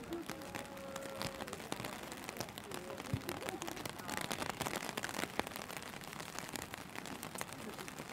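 Rain falling, a dense, irregular patter of many small drop ticks over a steady hiss.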